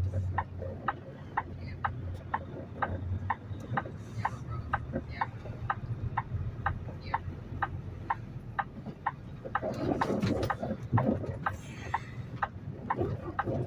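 Steady ticking of a semi truck's turn-signal or hazard flasher, about two ticks a second, over the low hum of the idling diesel engine. There is a short burst of rougher noise about ten seconds in.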